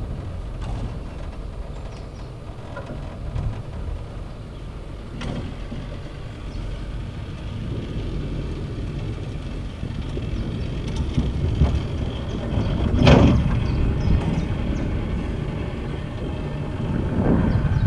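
Steady rumble and noise of a cable car ride, with a few light clicks and a louder sudden rumble about thirteen seconds in.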